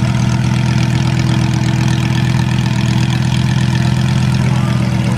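Exotic sports car engine idling steadily, with no revving.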